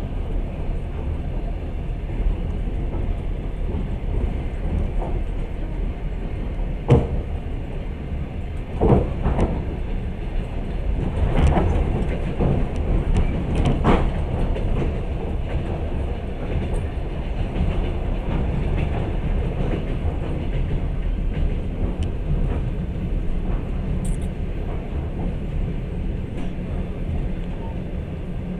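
Passenger train carriage running along the track, heard from inside: a steady low rumble, with a few sharp knocks in the middle of the stretch.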